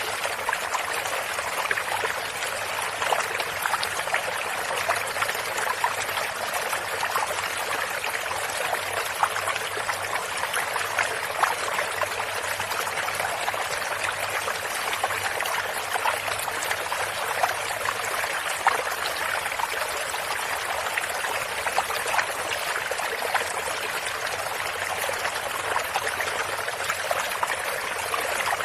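A stream of running water, flowing and trickling steadily.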